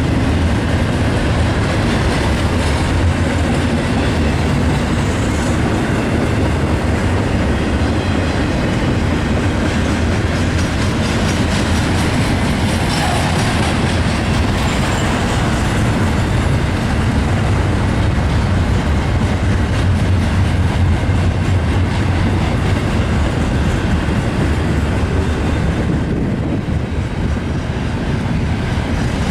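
Norfolk Southern freight train rolling past at close range: a steady, loud rumble of steel wheels on the rails.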